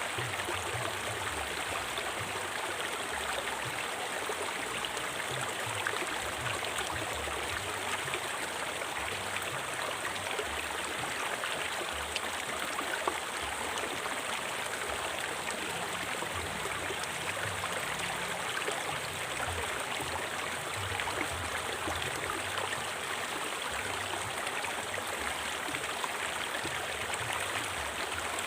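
River water flowing steadily over rocks, an even rushing with fine splashing and gurgling.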